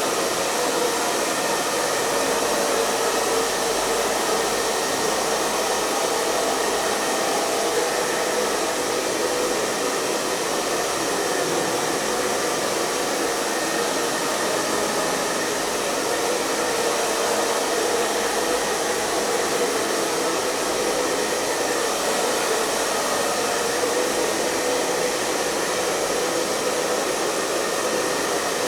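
Hair dryer running continuously: a steady airy rush with a faint hum, unchanging throughout.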